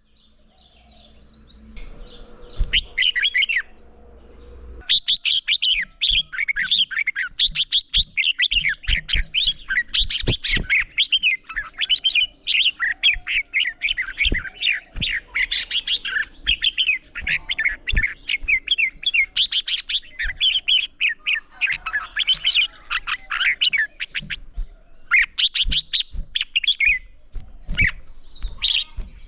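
Red-whiskered bulbuls singing in quick, varied warbled phrases, a short phrase about two seconds in and then almost unbroken song from about five seconds on: the loud, rapid competitive singing (hót đấu) that keepers use to train and provoke other bulbuls.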